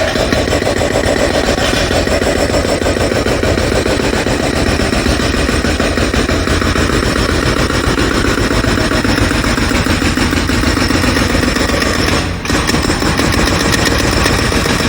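Jackhammer breaking up the ground, a continuous loud rapid hammering with a brief break about twelve seconds in.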